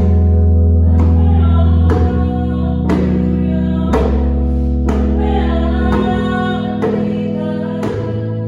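Worship song: a voice singing the melody over sustained instrumental accompaniment, with a djembe struck about once a second.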